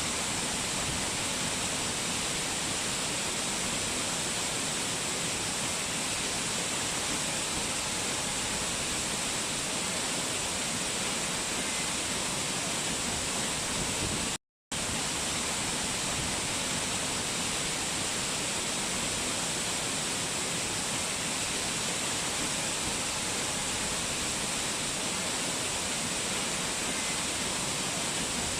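Steady rushing water, an even hiss strongest in the high range, cutting out to silence for a split second about halfway through.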